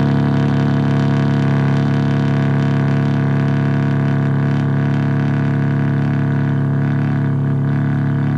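BMW G80 M3 Competition's twin-turbo inline-six idling steadily through its exhaust, a deep even drone.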